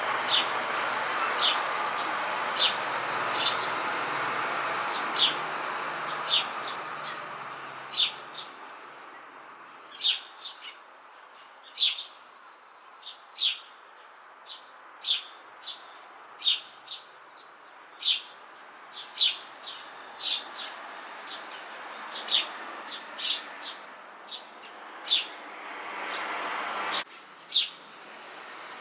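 Eurasian tree sparrow (the Japanese suzume) giving repeated short, sharp 'chun chun' chirps, roughly one every second. It is heard over a steady background noise that fades after about eight seconds.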